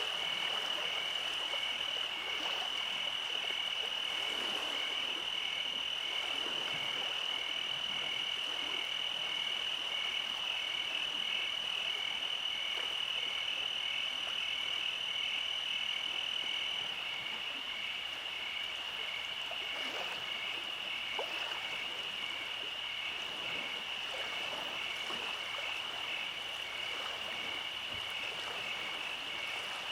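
Night chorus of frogs: a steady high trill with a regular pulsing call repeating more than once a second. A thin high tone stops about 17 seconds in.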